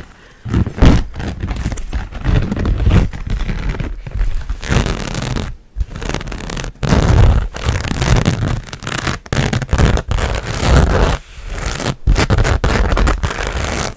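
A fabric picnic bag handled close to the microphone: irregular rustling and scraping strokes with heavy low handling thumps.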